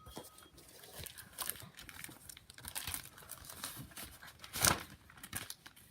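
Paper catalog pages rustling and crinkling as they are handled and turned, in irregular bursts with a louder rustle about three quarters of the way through.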